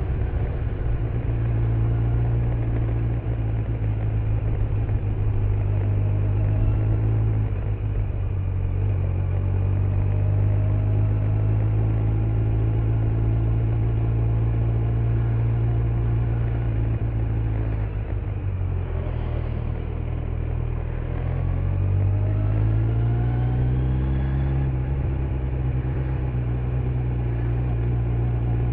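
Kawasaki Z900 inline-four engine with stock exhaust running under way, a steady engine note with tyre and road noise. About two-thirds of the way in the engine note drops as the throttle is eased, then rises again as the bike accelerates.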